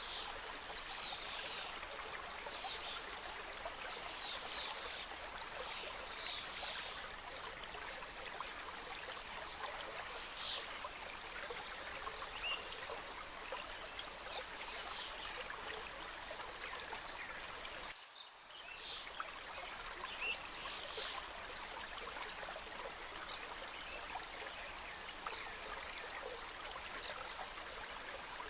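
Mountain stream cascading over rocks: a steady rush of flowing water, with short high bird chirps scattered over it.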